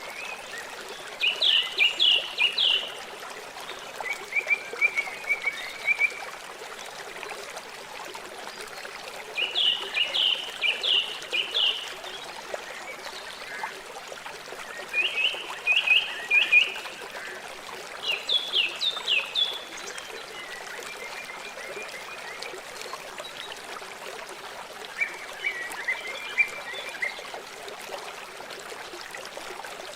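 River water flowing steadily. About every few seconds comes a bout of rapid, high, pulsed calls from a small animal.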